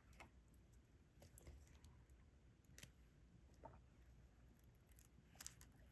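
Near silence with a few faint, scattered small clicks and taps from diamond painting work: plastic drill containers and the drill pen being handled.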